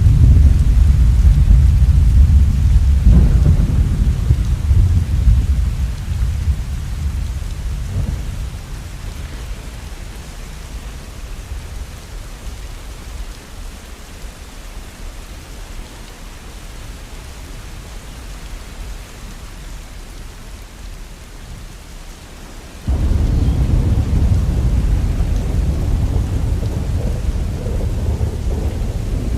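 Thunder over steady rain. A long, low rumble fades away over the first ten seconds or so, leaving the rain alone. A new roll of thunder starts abruptly about 23 seconds in.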